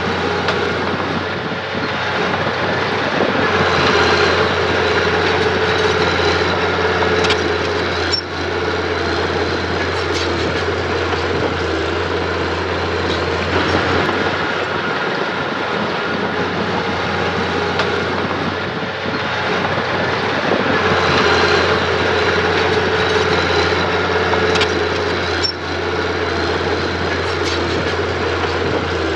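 Heavy earthmoving machinery running steadily: a constant low engine drone under a higher metallic whine that swells and fades twice.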